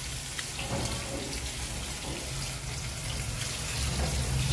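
Battered banana fritters sizzling and crackling in hot oil in a frying pan, a steady hiss dotted with small pops.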